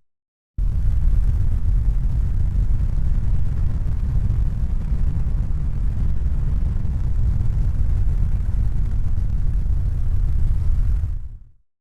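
Steady low rumbling noise with no clear tone or rhythm. It starts abruptly after a brief silence and fades out near the end.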